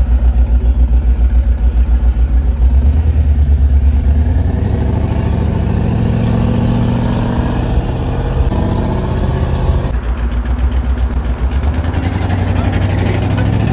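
Twin-turbo limousine's engine pulling hard under acceleration. Its pitch climbs, drops back about halfway through, then climbs again.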